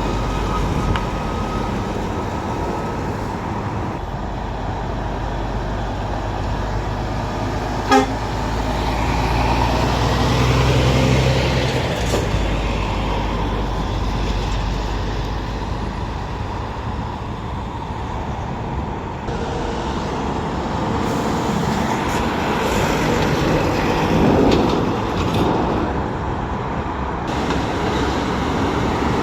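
Heavy traffic and truck engines running steadily, with a low engine sound swelling and fading about ten seconds in. A very brief, sharp horn toot sounds about eight seconds in.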